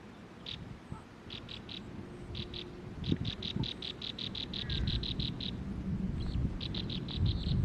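A bird calling with short high notes. It gives a few at a time, then a longer rapid run of about six notes a second through the middle, over a low rumbling background noise.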